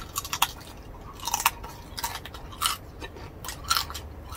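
Close-miked mouth sounds of people chewing roast pork (lechon), with a handful of short, sharp crackling bites about a second apart.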